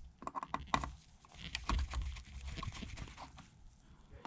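Irregular light clicks and taps of a precision screwdriver and tiny screws against the iPad's metal frame, as the screen-plate screws are backed out and set down.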